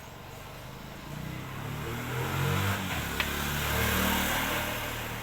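A motor vehicle engine rising in pitch and growing louder, then easing off and fading toward the end, with a single sharp click about three seconds in.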